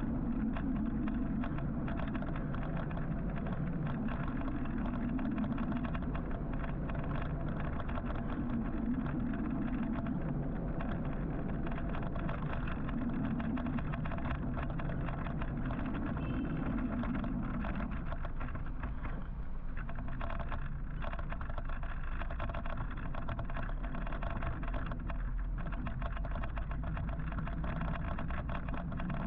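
Urban road traffic heard from a moving electric motorcycle: continuous tyre and road noise with the sound of surrounding cars and engines, swelling and easing every few seconds.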